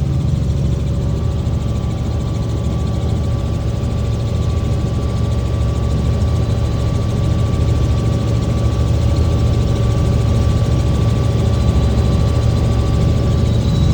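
Helicopter engine and rotors running steadily: a loud, continuous low drone with a thin steady whine above it, growing slightly louder towards the end.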